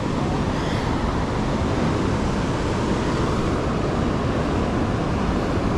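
Steady rushing noise of fast-flowing river water.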